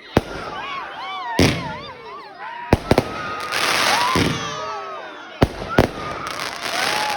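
Fireworks going off: about six sharp bangs spread through, some in quick pairs, with a dense crackle after the bangs around the middle and again near the end.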